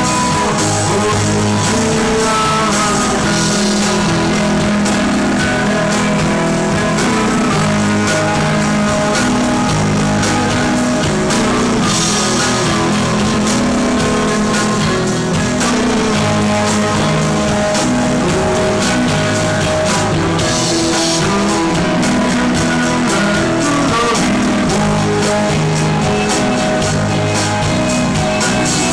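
Rock band playing live: electric guitars, bass and drum kit, with brighter cymbal crashes about twelve and twenty-one seconds in.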